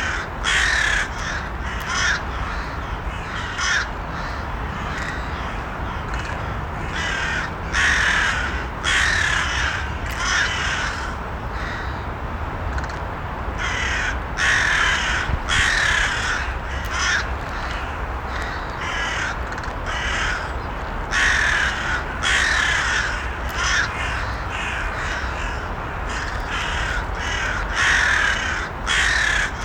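Crows cawing, harsh calls coming in bursts every second or two, some in quick runs of two or three, over a steady low background rumble.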